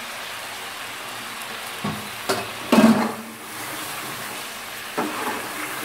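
Chicken and ground spice masala sizzling in oil in an aluminium pot. A metal slotted spoon stirs and knocks against the pot a few times, loudest about three seconds in.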